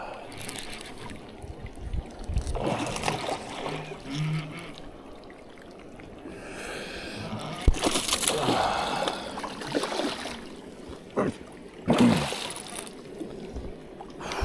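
Water splashing in several irregular bursts as a hooked bass thrashes near the surface during the fight; the loudest splashes come about two-thirds of the way in and again near the end.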